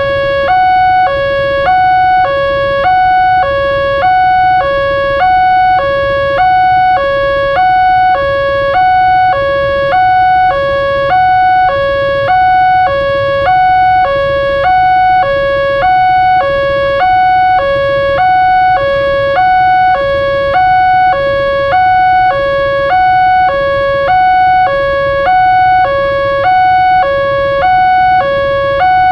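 Electronic warning alarm of a railroad level crossing sounding its two-tone call: a lower and a higher tone alternating evenly, about one pair a second. It warns that a train is approaching. A low rumble runs underneath.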